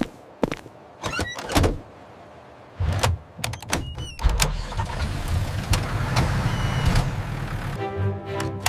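Sound effects of a vehicle: a few short clicks and clunks like doors shutting, then an engine starts about three seconds in and runs steadily.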